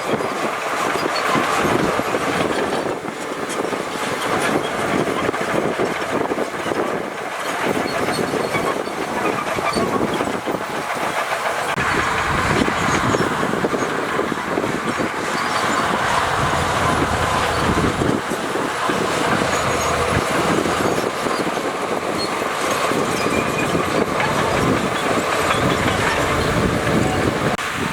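Shantui crawler bulldozer working: its diesel engine runs under a steady clanking and rattling from its steel tracks. The low rumble grows stronger about twelve seconds in.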